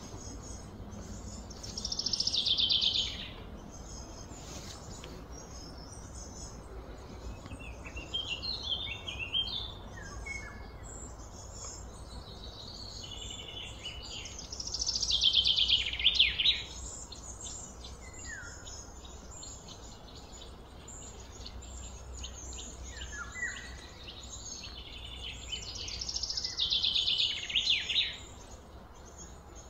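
Songbird singing outdoors: three short phrases of rapid notes, each dropping in pitch, about twelve seconds apart, with scattered shorter chirps between them, over a steady low background hum.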